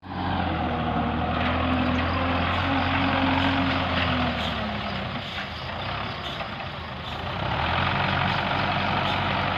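Tractor engine running steadily; it eases off about halfway through and picks up again near the end.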